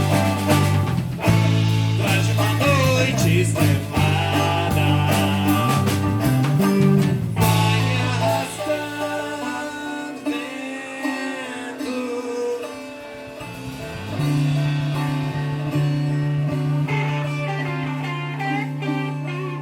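Live band music: electric bass and drums under plucked guitar lines, then the drums drop out about eight seconds in and the guitars play on over a long held bass note.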